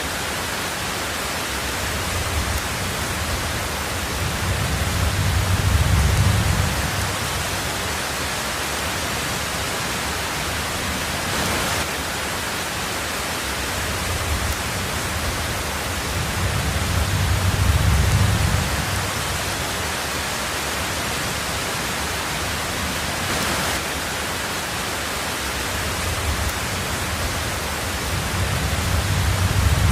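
Heavy rain on a tin roof, a steady dense hiss. Three low rumbles of thunder swell and fade, about twelve seconds apart.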